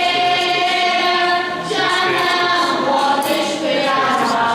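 Choir singing a hymn at Mass in long, held phrases, with brief breaks about a second and a half in and again near the end.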